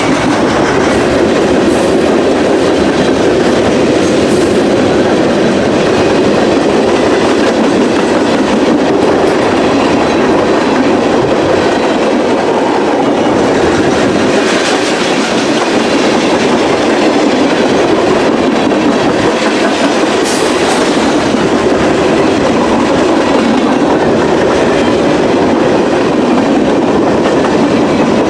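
Freight train rolling past at speed, its steel wheels clattering steadily over the rails.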